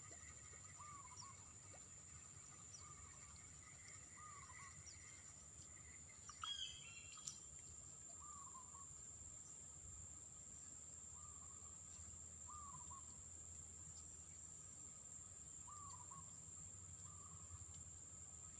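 Faint riverside ambience: a bird repeating a short, low hooked call every couple of seconds over a steady high-pitched insect drone. One brighter, sliding bird call comes about six and a half seconds in.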